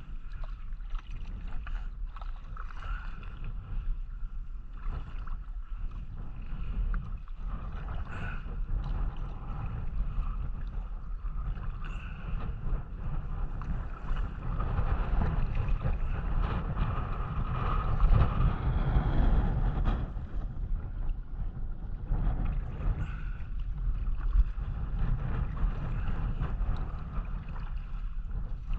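Wind rumbling on the microphone, with water noise and light splashes from kayak paddling.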